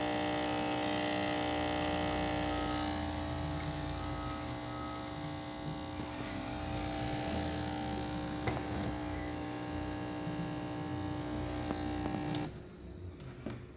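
DeLonghi Dedica espresso machine's vibratory pump buzzing steadily while it pushes water through a shot under pressure, then cutting off suddenly near the end. A single click sounds about two-thirds of the way through.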